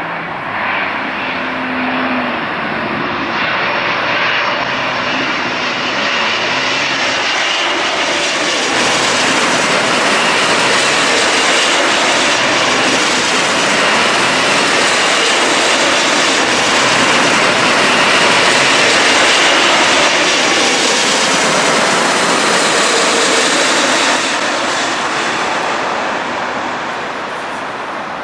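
Jet airliner on final approach passing low overhead: the engine noise and rushing air build up steadily, are loudest a little past the middle, then die away near the end.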